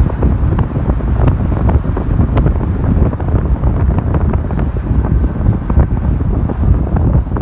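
Wind buffeting the camera microphone: a heavy, steady low rumble with frequent crackling gusts.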